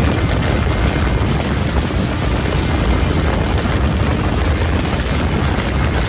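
Motorcycle riding at speed: a steady rush of wind buffeting the microphone, heavy in the low end.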